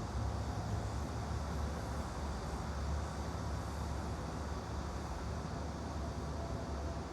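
Steady background ambience: a continuous low rumble with an even hiss over it, with no distinct events.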